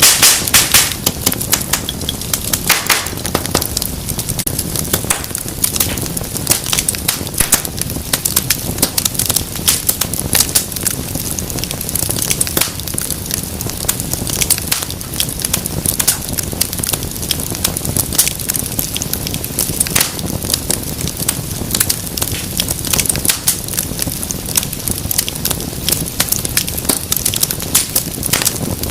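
Wood fire burning with a steady low rush and many irregular crackles and pops, densest in the first few seconds.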